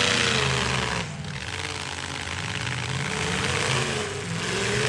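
Demolition derby truck engines running and revving, wavering in pitch, dropping off about a second in and then building again.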